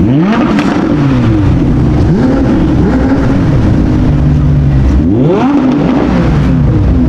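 A car engine revving twice: the pitch climbs sharply right at the start and again about five seconds in, falling back between the revs.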